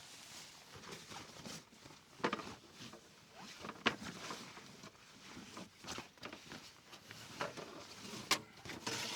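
Footsteps rustling and crunching on forest-floor litter, with sharp snaps about two, four and eight seconds in.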